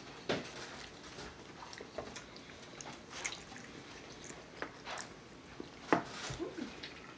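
Eating sounds from people chewing barbecued pork ribs: scattered, irregular wet mouth smacks and small clicks, the sharpest about six seconds in.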